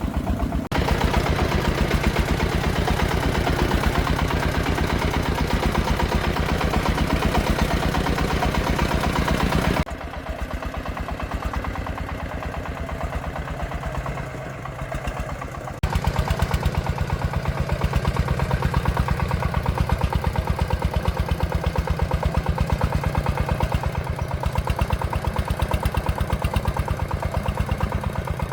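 Công nông farm vehicle's single-cylinder diesel engine running with a steady, rapid chugging. About ten seconds in it drops to a softer chug for about six seconds, then comes back up to full level.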